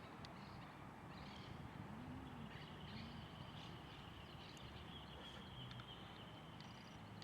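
Faint birdsong: short high chirps, and a long steady high-pitched note that starts about a third of the way in and holds almost to the end.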